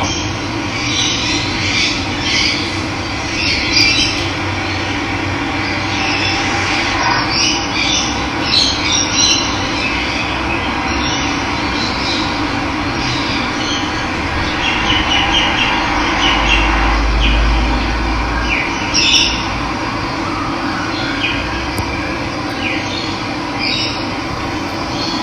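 Running water flowing steadily, with wild birds chirping and calling over it. A brief low rumble about two-thirds of the way through.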